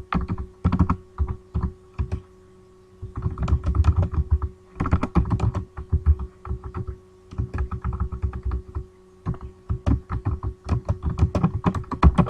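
Typing on a computer keyboard: quick runs of keystrokes with short pauses between them, the longest about two seconds in.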